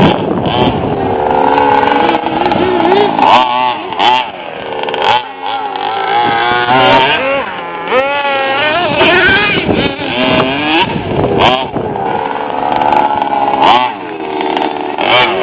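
Small nitro (glow-fuel) RC truck engines revving, their high buzzing pitch rising and falling again and again as the trucks accelerate and back off.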